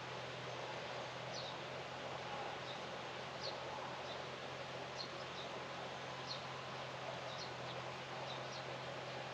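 Small birds chirping in short, high notes every second or so, over a steady outdoor hiss and a low, even hum.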